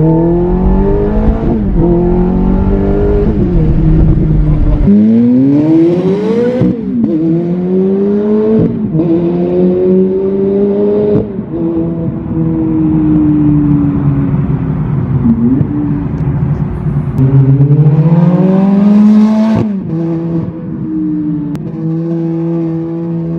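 Ferrari F430's flat-plane V8, straight-piped with the muffler removed, accelerating hard through the gears: the note climbs, then drops sharply at each upshift, about five times. Near the end it settles to a steadier, lower note.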